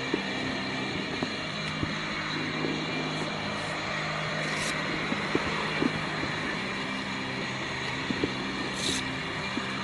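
Steady hum of a running vehicle with street background noise, broken by a few faint clicks.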